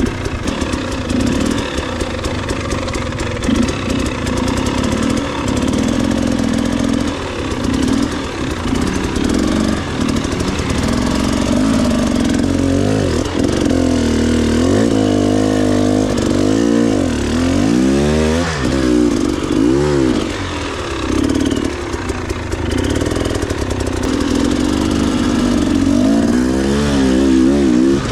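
Dirt bike engine running under throttle, revving up and down repeatedly with quick rises and falls in pitch, most of them in the middle and again near the end.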